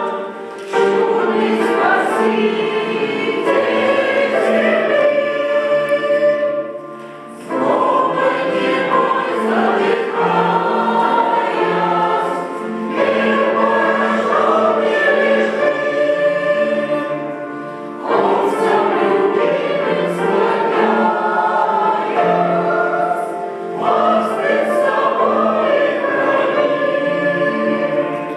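Church choir singing a hymn in several voice parts, phrase after phrase, with short breaks between phrases about every five to six seconds.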